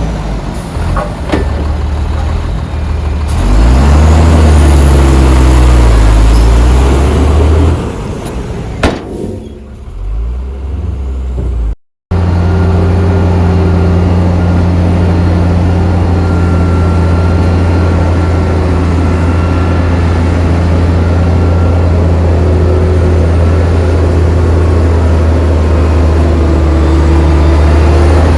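Heavy diesel engine of earthmoving machinery running loud, revving up and down during the first several seconds. After a brief dropout near the middle it settles into a steady, even run. A single sharp click sounds a little before the dropout.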